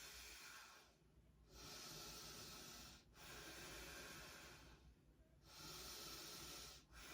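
Faint, slow, deep breathing by a person holding a forward fold: long hissing breaths in and out, each about a second and a half, with short pauses between them.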